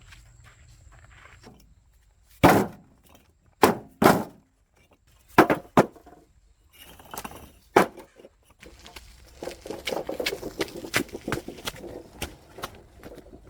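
A handful of sharp knocks at irregular intervals, then a denser run of quicker tapping and clattering over the last few seconds.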